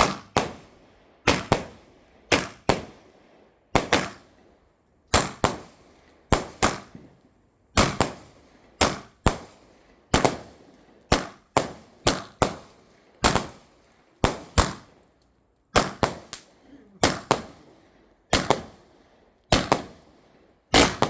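A multi-shot firework barrage firing: sharp bangs about once a second, many coming as quick pairs, each with a short echoing tail.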